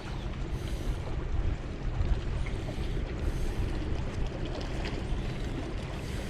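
Steady outdoor wind and water noise on the microphone: a low rumble with a faint hiss above it.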